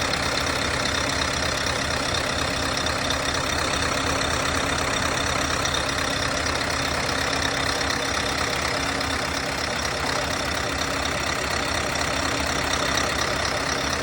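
Scania 620 hp V8 diesel truck engine idling steadily, with no revving.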